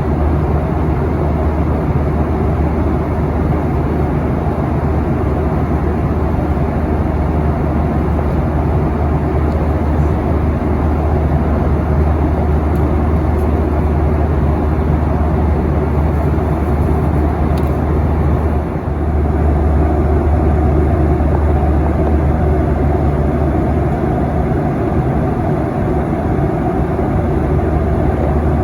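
Steady cabin noise of a Boeing 737-800 in flight: a deep, even hum from its CFM56 engines under airflow noise, heard from inside the passenger cabin, with a brief dip about two-thirds through.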